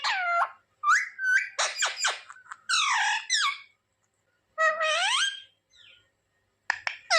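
Pet Indian ringneck parrot vocalizing in a string of high, squeaky calls and word-like mimicked phrases, each under a second long, with a pause of about a second midway.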